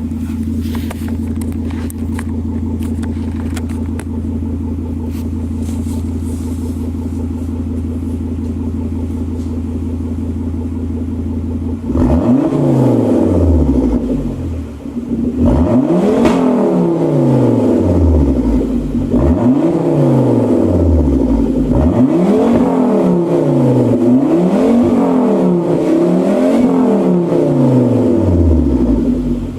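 Exhaust of a 2006 Volvo S80's 2.5-litre turbocharged inline five-cylinder with the muffler deleted, idling steadily, then about twelve seconds in revved in a series of quick blips that rise and fall in pitch.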